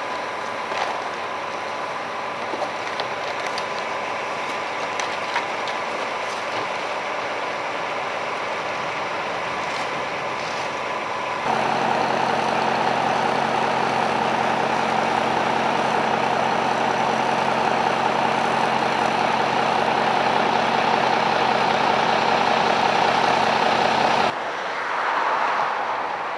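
Vehicle engine idling steadily among traffic noise. About eleven seconds in it abruptly gets louder with a low steady hum and buzz, then cuts off suddenly near the end.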